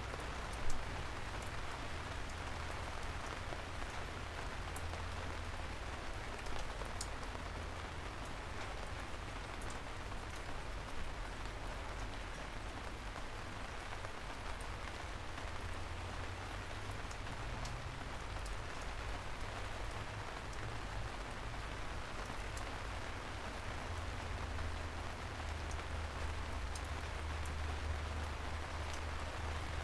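Steady rain falling: an even hiss with scattered sharp drips, over a low rumble that swells near the end.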